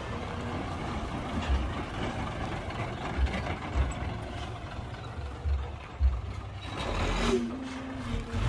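Heavy earthmoving machinery running steadily, with scattered low thumps and a brief rush of noise about seven seconds in.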